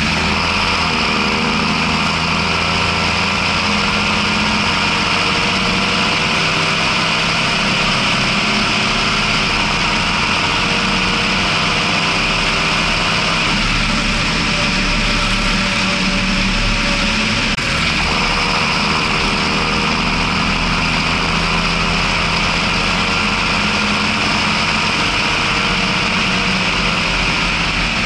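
John Deere 6620 tractor's six-cylinder diesel engine running steadily while the tractor is driven, heard from the driver's position.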